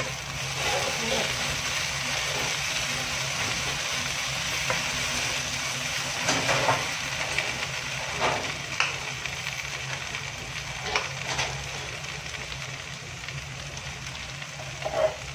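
Sliced okra frying in a non-stick wok, a steady sizzle, with a wooden spatula now and then scraping or knocking against the pan, the sharpest knock near the end. A steady low hum runs underneath.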